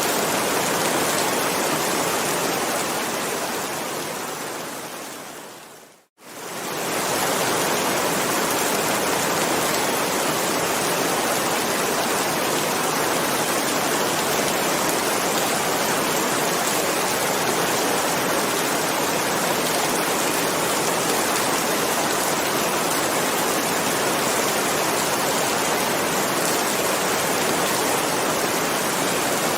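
Steady, dense heavy rain. It fades out to a brief silence about six seconds in and comes straight back, a join where the recording loops.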